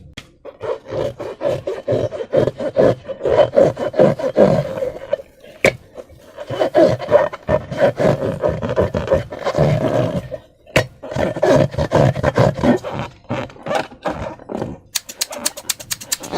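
Hands rubbing and squeezing rubber balloons and slime: rapid, irregular rubbing and squeaking strokes with two short pauses, ending in a quick run of sharp clicks.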